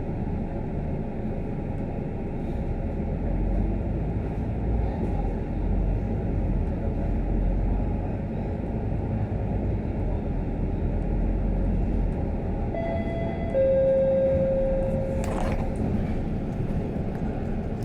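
Cabin noise aboard a Scania K310UD double-decker bus under way: steady engine and road rumble, with a deeper drone for several seconds in the middle. About thirteen seconds in, a two-note falling electronic chime sounds, the second note held for about two seconds, followed by a brief sharp noise.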